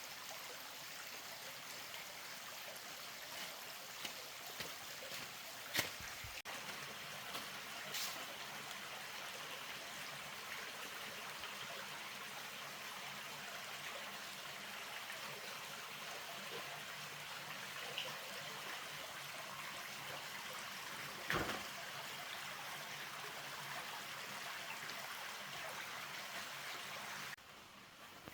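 Steady rushing of water, with a few sharp knocks. It drops away abruptly near the end.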